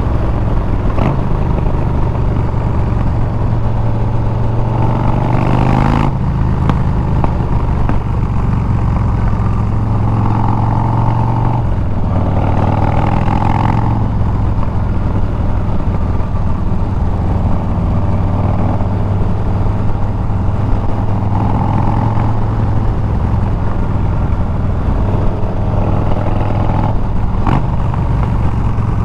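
Harley-Davidson Milwaukee-Eight 114 V-twin running loud through an aftermarket Bassani exhaust while riding. The engine note shifts a few times, about 6, 12 and 25 seconds in.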